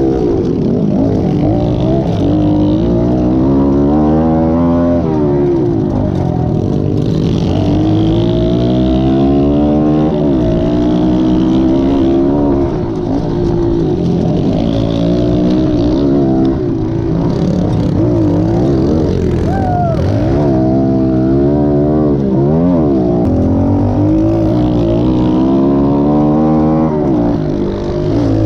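Pit bike engines revving up and down while riding, the pitch repeatedly rising and falling, with more than one bike running at once at times.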